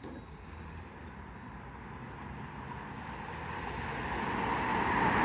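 A car approaching along the road, its tyre and engine noise growing steadily louder as it comes closer.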